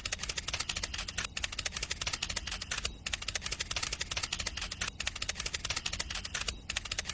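Rapid, even clicking from a small motor-driven DIY mechanism, with a brief break about every second and a half to two seconds.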